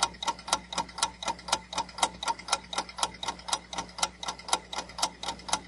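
Countdown timer sound effect: clock-like ticking, fast and even.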